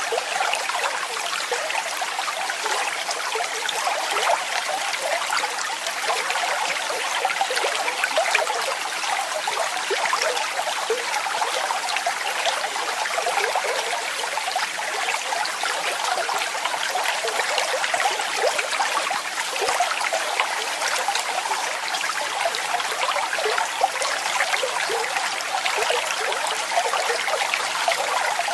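Waterfall: a steady, unbroken rush of falling and splashing water, bright and hissy with little deep rumble.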